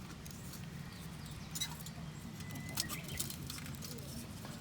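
Small wood fire in a compact stove crackling, with scattered sharp clicks and pops over a low steady hum.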